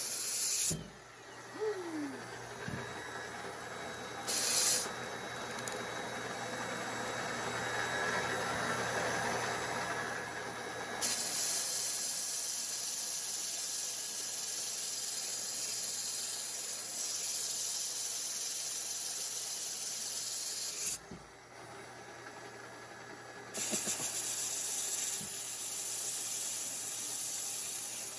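A steady hiss like air or spray under pressure. It comes in long stretches that stop and start, with a short burst about four seconds in, over a faint steady hum.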